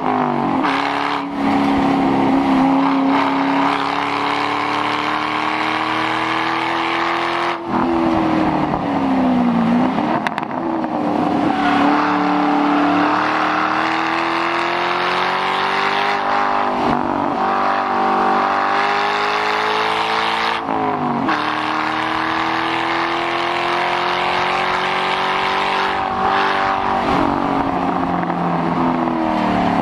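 2006 Ford Mustang GT's 4.6-litre V8 with the muffler deleted, driven hard on a race track. The revs climb slowly and steadily for several seconds, then fall sharply at each change, several times over, with a couple of quick dips and recoveries near 10 seconds in and near the end.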